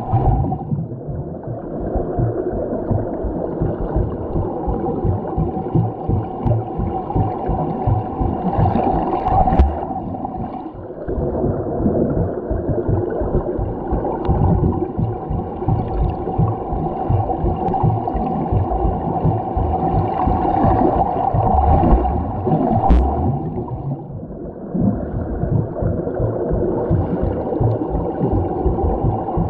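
Underwater recording of a swimmer doing laps: continuous muffled rushing, churning and bubbling water from the strokes. The level dips briefly three times, about a second, eleven and twenty-four seconds in.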